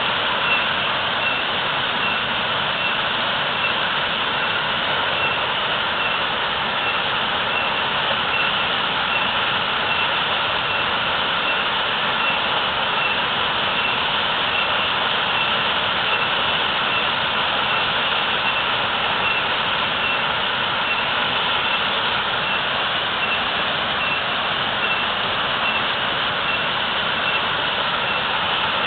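Heavy waterfall pouring, a steady rushing roar.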